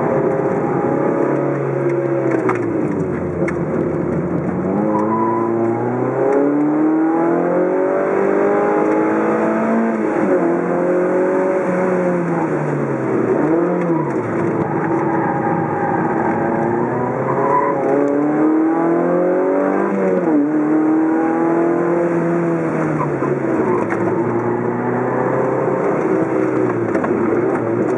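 Car engine heard from inside the cabin, its pitch climbing under acceleration and dropping back again and again as the car is driven hard around a racing circuit, with a sudden fall in pitch at each gear change or lift.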